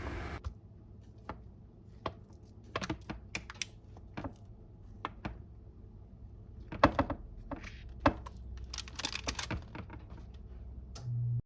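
Light, irregular clicks and taps of utensils against a dish as the baked herb-crusted chicken is handled and cut.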